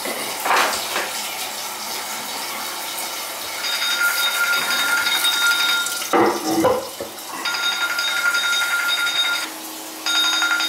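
Water running through household plumbing with a steady hiss; about a third of the way in a steady high-pitched whistle joins it, breaking off briefly twice before starting again.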